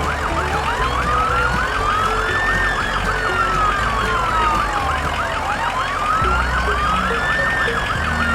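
Emergency vehicle siren sounding: a slow wail that rises and falls about every five seconds, overlaid with a faster yelping siren, over a steady low rumble.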